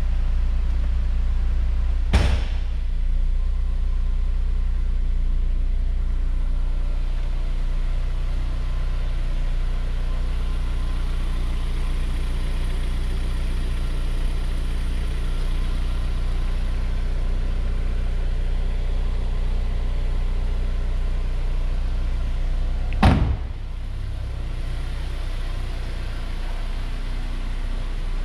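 Honda S2000's four-cylinder engine idling steadily. Two sharp thumps sound over it, a small one about two seconds in and a louder one near the end, after which the sound is a little quieter.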